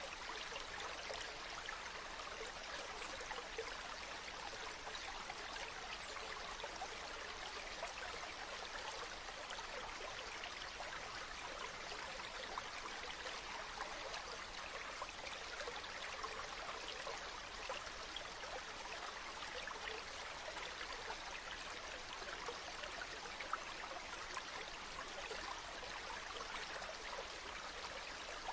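Water of a small stream running and trickling steadily, an even babble with fine splashy detail.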